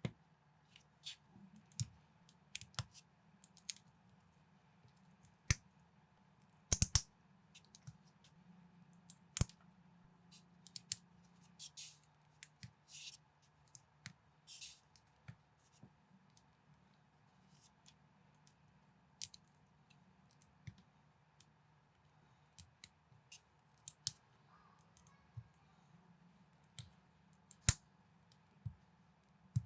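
Plastic building bricks being handled and pressed together: irregular sharp clicks and brief light rustles, over a faint steady low hum.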